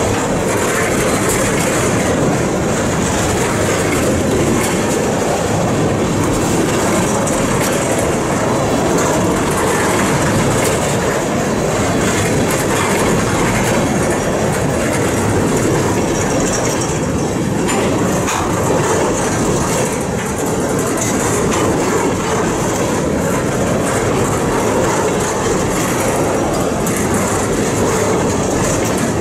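Loaded railroad tank cars of a long freight train rolling past close by: a steady rumble and clatter of steel wheels on the rails, with a steady high ring over it.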